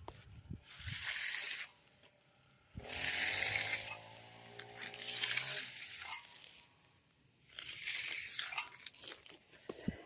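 A concrete finishing broom drawn across a freshly poured slab, about four long scraping strokes a second or two apart, giving the wet surface a broom finish. A low steady drone sounds under the second and third strokes.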